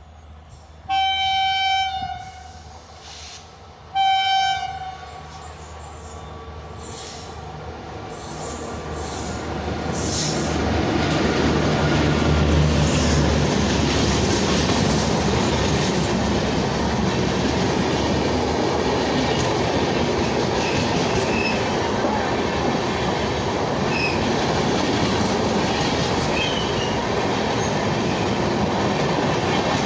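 WAP-4 electric locomotive sounds two horn blasts, about a second in and again some three seconds later, as it approaches. The sound of the train grows and peaks as the locomotive passes about twelve seconds in. The passenger coaches then roll steadily past close by, with wheel clatter.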